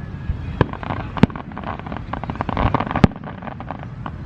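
Aerial fireworks display going off: three sharp bangs in the first three seconds, with runs of fast crackling between them, over a low rumble.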